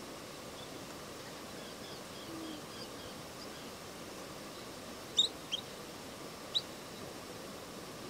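A small bird gives short, sharp, high chirps: two close together a little past halfway, then one more about a second later. Fainter high twittering comes earlier, over a steady outdoor hiss.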